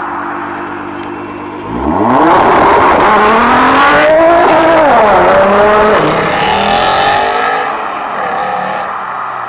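A car engine running at a steady low note, then revved hard about two seconds in. It stays loud for several seconds with the revs swinging up and down, climbs through a few rising pulls, and fades as the car drives off.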